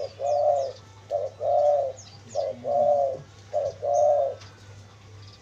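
Spotted dove cooing: four phrases, each a short note followed by a longer, arching coo, stopping about four and a half seconds in.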